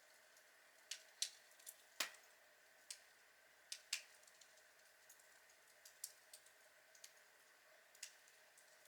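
Outdoor log fire crackling: irregular sharp pops and snaps over a faint steady hiss, the loudest pop about two seconds in.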